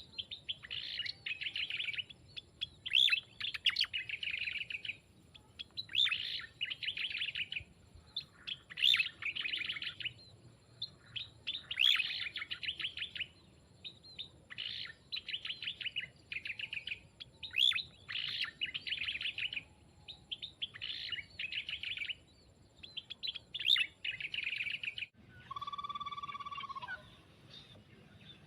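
Small songbird chattering in quick, rapid-note bursts of about a second each, repeated every second or two. Near the end a different, clearer pitched call sounds twice.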